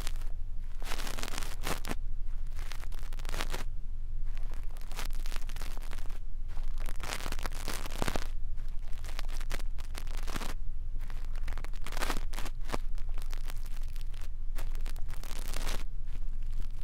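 Brush bristles sweeping and scratching over a microphone in ASMR ear cleaning: repeated rustling, scratchy strokes with short pauses between them.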